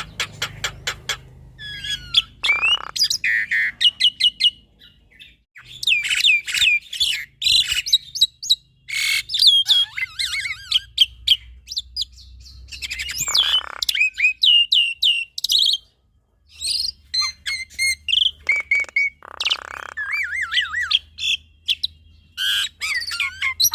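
A black-winged starling (jalak putih) and a Javan myna (jalak kebo) singing together, a varied run of rapid clicking, chattering and quick rising and falling whistles and trills, in bursts with two short pauses.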